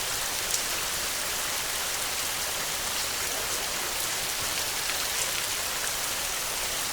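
Heavy rain falling steadily, a dense patter of drops with no thunder.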